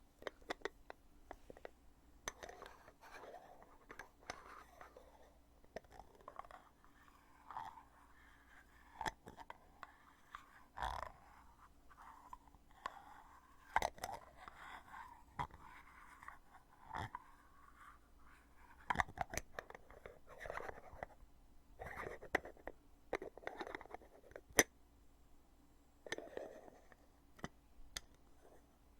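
A foundation container's heavy lid being opened and closed over and over: sharp clicks at irregular intervals, with softer rubbing and handling sounds between them.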